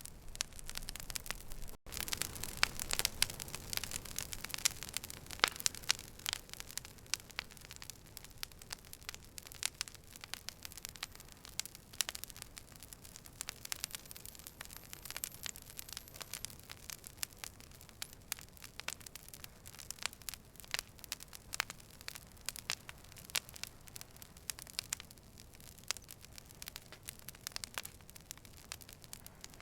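Campfire crackling: irregular sharp pops and snaps over a soft hiss, busiest in the first few seconds and sparser after. The sound cuts out for an instant about two seconds in.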